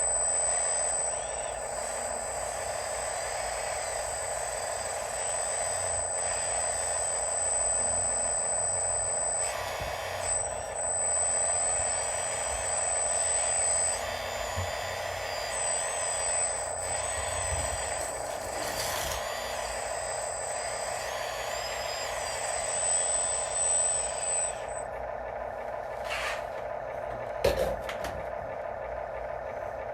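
Radio-controlled construction models running on their electric motors and gearing, with a high steady whine that breaks off a few times and stops about 25 seconds in. A few sharp knocks near the end.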